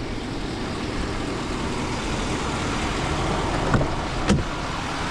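Steady road and tyre noise of passing traffic, with two short clicks about four seconds in.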